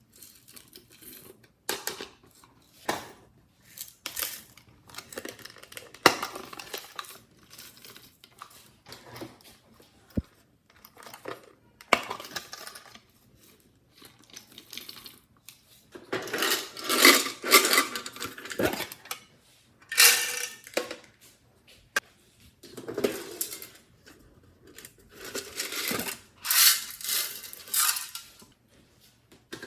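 Slime being handled and mixed, giving irregular clicking, popping and squishing, busier and louder from about halfway through and again near the end.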